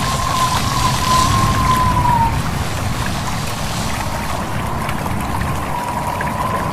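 Stream babbling and wind in leaves, a steady rushing noise, with a thin wavering whistle for the first two seconds and again near the end.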